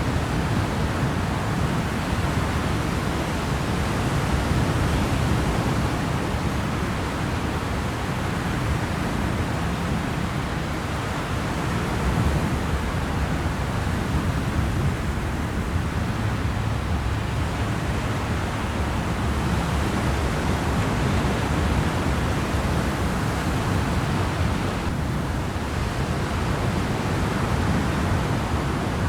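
Steady rushing noise on a moving car ferry, wind and water with a low rumble underneath, holding even throughout.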